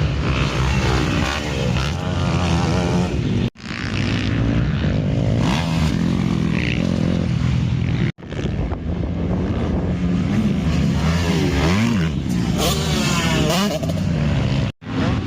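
Several motocross bikes racing on a dirt track, their engines revving up and down and overlapping as they pass. The sound drops out sharply three times, for a split second each.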